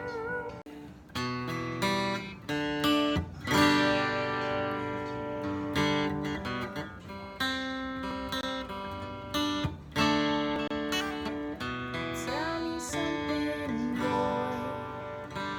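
Acoustic guitar music: strummed chords, changing every second or two.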